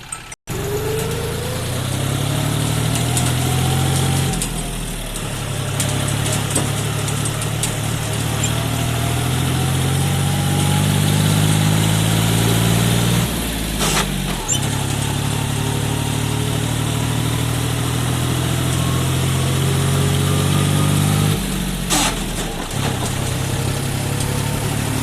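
John Deere tractor's diesel engine running steadily while hauling a loaded trolley. The engine note drops and picks up again three times, with a rising whine in the first few seconds and a sharp clack about halfway through and again near the end.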